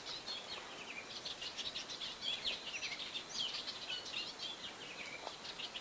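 Several small songbirds chirping and twittering, a busy run of quick high notes.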